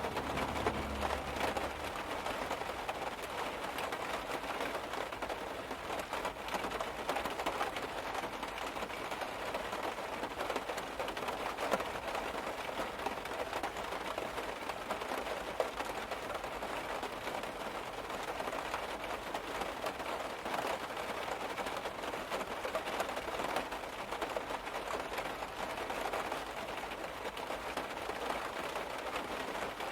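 Steady rain pattering on a car's roof and body, heard from inside the car: a dense, even spatter of drops.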